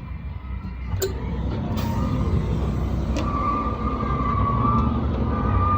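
Vehicle engine and road rumble growing slowly louder, with a faint steady whine joining about three seconds in and a couple of sharp clicks.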